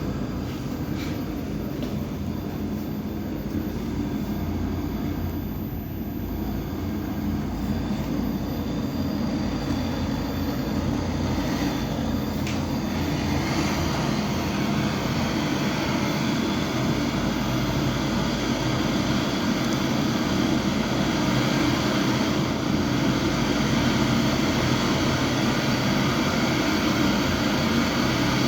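A steady mechanical hum of a running motor or fan, growing gradually louder, with a couple of faint clicks near the middle.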